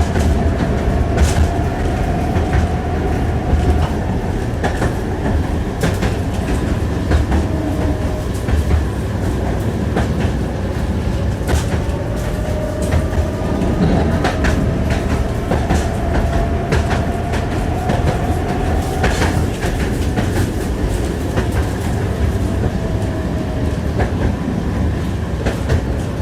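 Tram wheels clattering over rail joints while the car runs along, heard from inside the car: a steady rumble with irregular sharp clicks. A faint whine slowly rises and falls in pitch.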